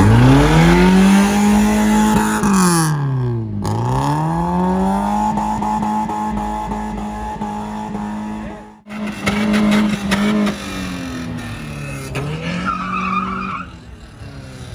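A modified car's engine revved hard and held at high revs, the pitch dropping off twice and climbing straight back up.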